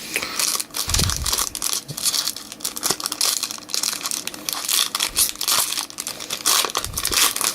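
Plastic wrapping and foil card packs from a Topps Chrome blaster box crinkling and tearing as they are opened by hand, with a couple of dull knocks as the box is handled.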